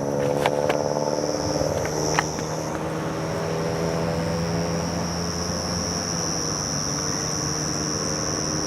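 Insects, crickets by the sound, chirping in a steady high trill, with a vehicle engine running steadily underneath. A couple of short clicks in the first few seconds.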